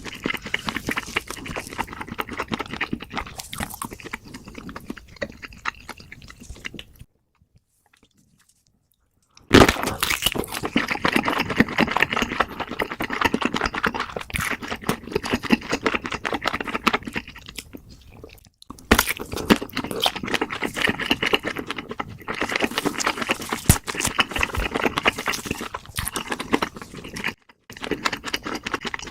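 Close-miked eating sounds: dense, rapid chewing and crunching with many small clicks and smacks. About seven seconds in, the sound drops out to silence for about two seconds, then the eating resumes.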